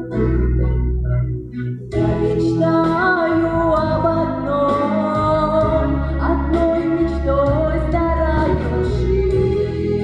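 Song with a full backing track of bass and keyboards; from about two seconds in, a female voice sings a sliding melody over it.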